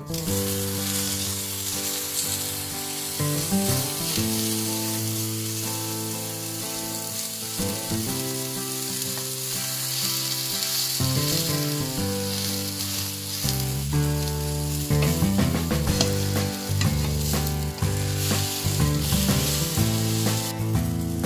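A dosa sizzling steadily in a hot non-stick frying pan, with light taps and scrapes of a plastic spatula in the second half. Background music plays underneath, a bass line coming in about two-thirds of the way through.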